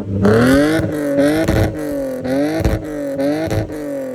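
Car engine held on a two-step launch limiter, the revs bouncing up and down about twice a second with sharp exhaust pops and bangs; it drops off at the very end.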